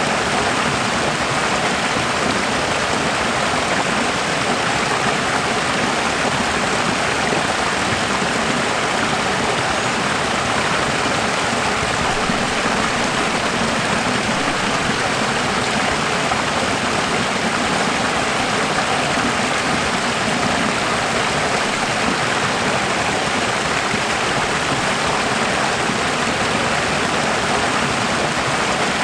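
Running water: a steady, even rush of flowing water with no change in level and no separate drips or splashes.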